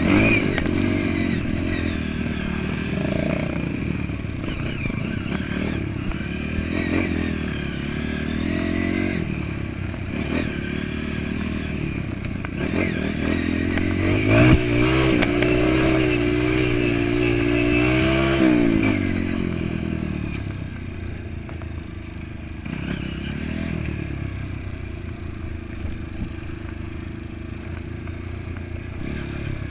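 Trail motorcycle engine running and revving, its pitch wavering up and down, with a louder, higher-revving stretch about halfway through before it eases off.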